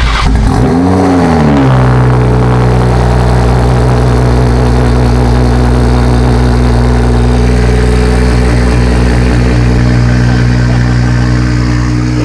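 BMW B58 3.0-litre turbocharged straight-six starting through a custom 3.5-inch straight-pipe exhaust: it catches, flares up in revs about a second in, falls back, and settles into a steady idle.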